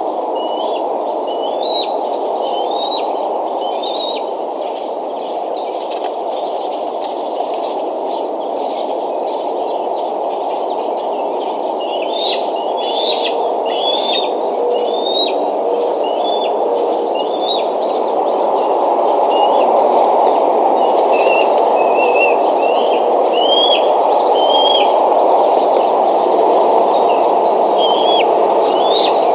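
Bird chirps, series of short rising notes repeating in bouts, over a steady rushing noise that grows a little louder about two-thirds of the way through.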